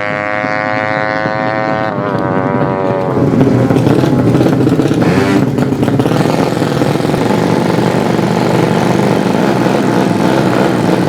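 Tuned 200cc underbone racing motorcycle engines at a drag race: a high, steady engine note that sags slightly in pitch, then a louder, rougher engine sound taking over about three seconds in and holding.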